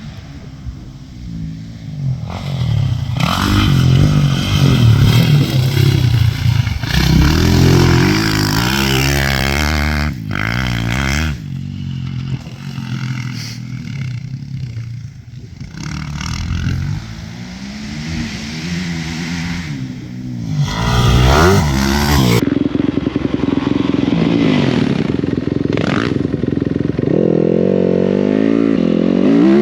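Yamaha YZ250F single-cylinder four-stroke dirt bike with an FMF 4.1 titanium exhaust, ridden on a motocross track. The engine revs up and drops again over and over as the rider shifts and rolls off, with wind noise and chassis clatter. The sound changes character about two-thirds of the way in, then rises in pitch again near the end.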